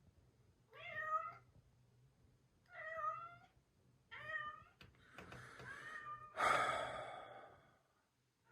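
Domestic cat meowing at its owner for attention: three short meows, then a longer, louder call near the end.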